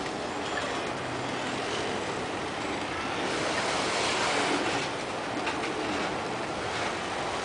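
Freight train boxcars rolling past, a steady rush of wheels on rails. It swells a little a few seconds in, with a few faint clicks near the end.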